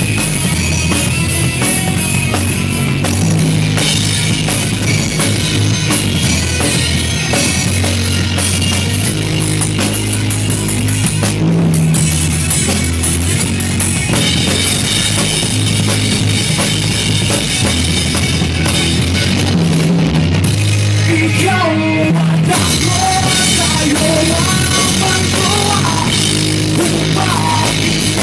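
Rock band playing an instrumental passage: drum kit and sustained bass notes under dense guitar. About 21 seconds in, a wavering lead melody rises above the band.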